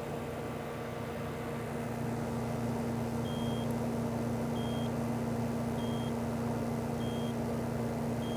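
Refrigeration or air-conditioning equipment running with a steady electrical hum, its noise swelling about two seconds in. From about three seconds in, a short high electronic beep repeats five times, about every 1.2 seconds.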